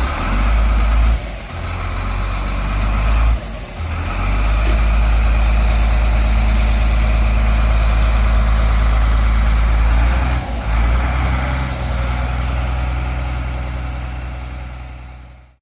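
Heavy diesel engine of a Beiben 4x4 water bowser truck running with a deep, steady rumble. The rumble briefly drops three times, then fades out near the end.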